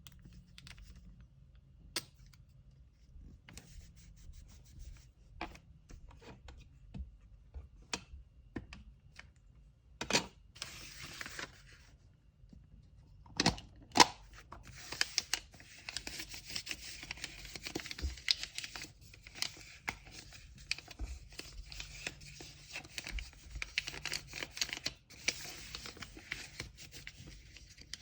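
Hand-packing sounds: scattered light taps and clicks of items being handled, a couple of sharper knocks, then from about fifteen seconds in a steady crackling rustle of paper being crinkled and handled.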